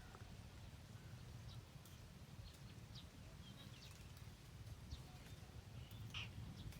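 Near silence in open country: a faint steady low rumble with a few brief, faint high chirps scattered through it, typical of birds.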